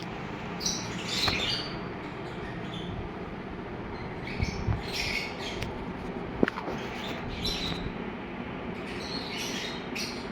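Caged birds calling in short, harsh squawks and chirps every second or two over a steady background hum, with one sharp click about six and a half seconds in.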